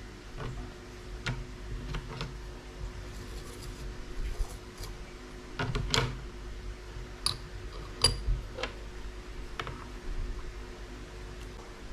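Light clicks and taps of small metal watch parts and tools being handled, with a few sharper metallic ticks about six to eight seconds in, over a faint steady hum.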